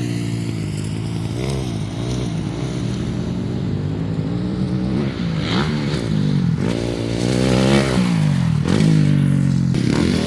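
Dirt bike engines revving as riders go around the track, the pitch rising and falling again and again with throttle and gear changes.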